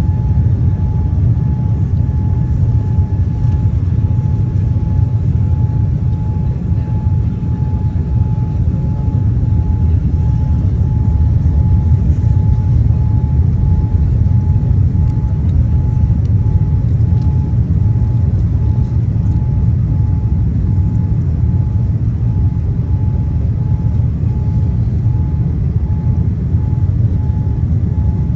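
Steady low rumble of a jet airliner's cabin in flight, with a faint even hiss over it and a thin steady tone.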